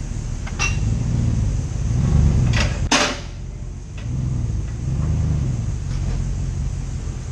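A 2019 Chevrolet Silverado 5.3 V8 pickup driving, still on its Magnaflow muffler: a steady low rumble that swells and eases a few times. A few sharp clicks cut in, one about half a second in and two louder ones just before three seconds.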